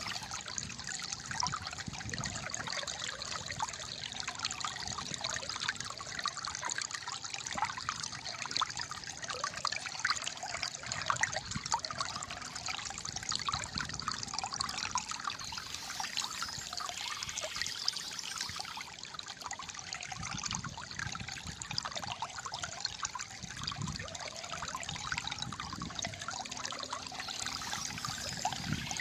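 Flowing water gurgling and trickling steadily.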